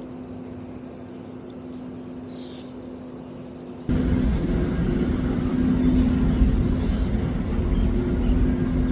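A steady low mechanical hum, joined about four seconds in by a loud, abrupt rush of rumbling noise that holds to the end.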